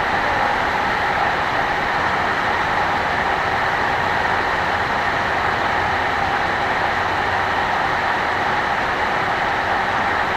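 FPV racing drone's electric motors and propellers running steadily in flight, a constant whirring hiss with a few faint steady tones, mixed with wind noise.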